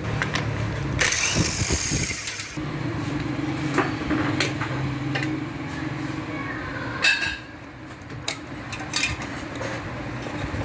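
A power tool running steadily, with metal knocks and clicks; a short burst of hiss about a second in, and the running stops about seven seconds in, leaving scattered clinks.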